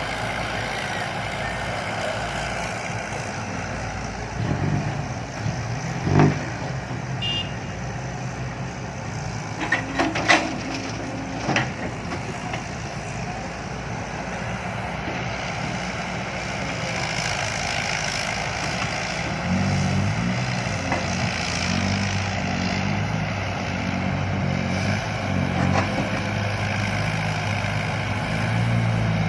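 Diesel dump truck engine running steadily, with a few sharp knocks about six, ten and eleven seconds in. From about twenty seconds in the engine note grows louder and heavier, as the truck pulls out of the pit.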